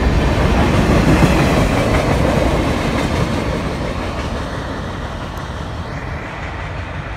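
CN freight train's tank cars and a trailing boxcar rolling past, their wheels rumbling and clattering on the rails. The sound is loudest about a second in, then fades steadily as the last car passes and the train draws away.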